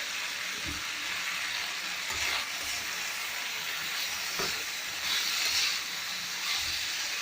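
Chicken frying in oil in a kadai: a steady sizzle, with the stirring spoon scraping and knocking against the pan every couple of seconds.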